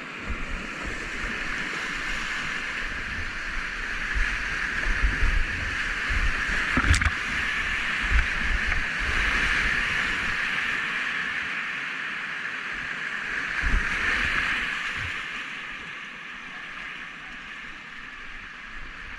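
Rushing whitewater of a shallow, rocky river at low flow, running steadily with irregular low thumps and a sharp knock about seven seconds in.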